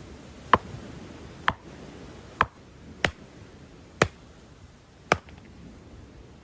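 Six sharp knocks, roughly one a second, each dying away quickly.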